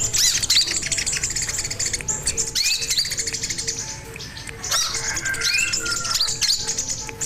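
A sogon songbird calling continuously in rapid high chirps and short swooping whistles, with a faint low pip repeating about three times a second underneath.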